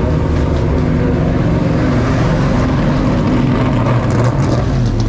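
Vintage Trans Am race car engine running, a loud, steady low rumble.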